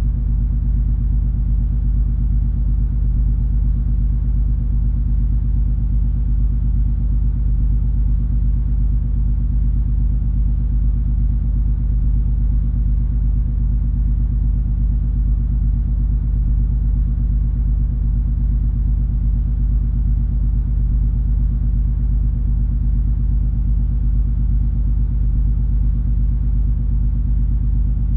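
Steady low drone of the cruise ferry MS Color Magic under way: a deep rumble with a constant engine hum of several even tones over it, unchanging throughout.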